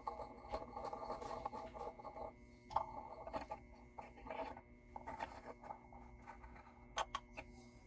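Hand work on an instrument: light, irregular scraping and scratching with scattered small clicks and taps, strongest in the first few seconds and with two sharp ticks near the end, over a steady faint hum.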